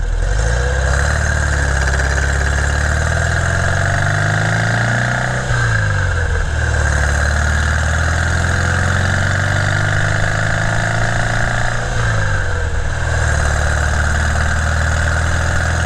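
Porsche 356's air-cooled flat-four engine accelerating under load: its pitch climbs, drops at a gear change about five seconds in, climbs again and drops at a second upshift about twelve seconds in, then runs steadily.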